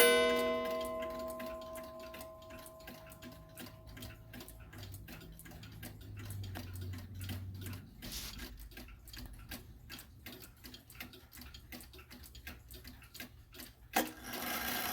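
Seth Thomas beehive mantel clock striking once, the tone ringing out and dying away over about four seconds, then ticking steadily. A sharp knock comes near the end.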